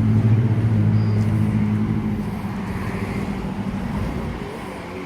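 Motor vehicle engine running with a steady hum that dies away over a few seconds as it moves off.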